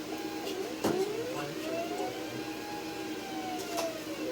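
Electronic craft cutting machine running, its motors whining as the cutting head travels. The pitch climbs and falls back in one long slow sweep, over a steady hum, with short level tones and two sharp clicks.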